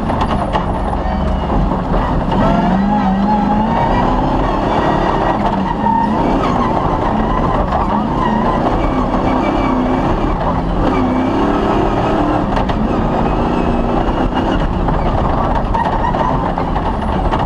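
Off-road rally car's engine running hard during a stage, its pitch rising and falling with throttle and gear changes. Under it is a constant loud rumble.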